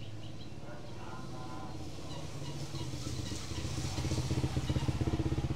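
A motorcycle engine running close by, growing louder from about two seconds in and loudest near the end, as if passing.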